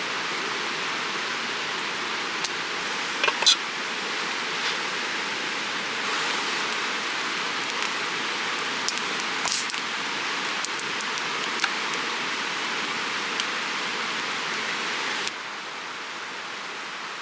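Steady rushing water of a creek with scattered sharp crackles and pops from a log campfire. The rushing drops abruptly quieter near the end.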